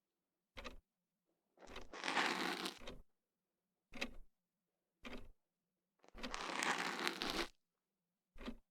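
Ear-pick strokes scraping and rustling close inside the ear, ASMR ear cleaning: six separate strokes, four brief and two longer ones about two and seven seconds in, with silence between them.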